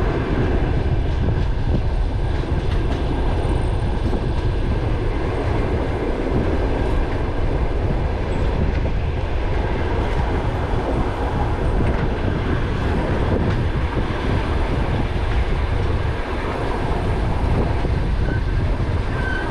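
Moving passenger train heard from inside a carriage: a steady loud rumble and rattle of wheels running on the rails.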